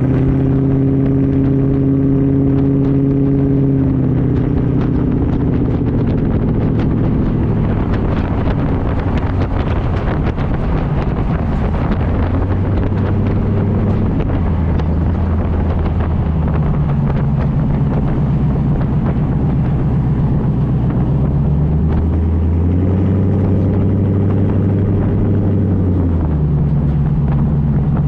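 Land Rover Defender 90 V8 running through a full custom exhaust while driving. The engine note is steady, drops in pitch about four seconds in, then rises and falls several times as engine speed changes, with wind noise mixed in.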